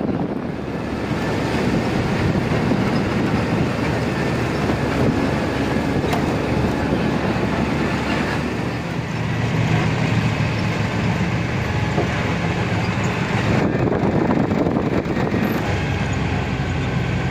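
Truck engine running steadily with road noise while driving.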